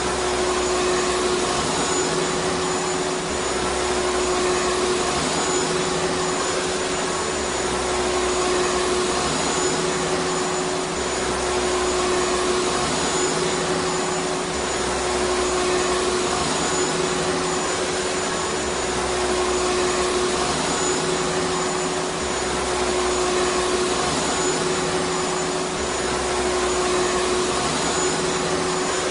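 Vacuum cleaner running steadily: a constant loud rush of air with a steady hum and a faint high whine. A low rumble beneath swells and fades every few seconds.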